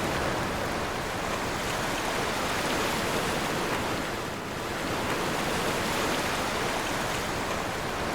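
Ocean surf: a steady rush of waves washing in, easing briefly about halfway through.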